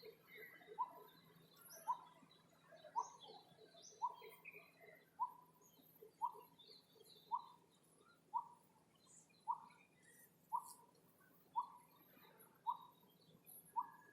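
A bird repeating a single short, clipped note about once a second in a steady, even rhythm, with faint scattered chirps of other birds in the background.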